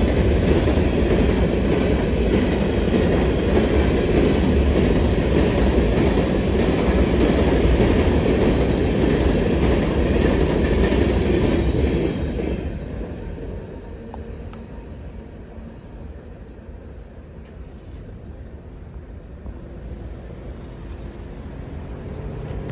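CSX freight train of hopper cars rolling past: a loud, steady rumble of wheels on rail that drops off sharply a little over halfway through, leaving a much quieter background.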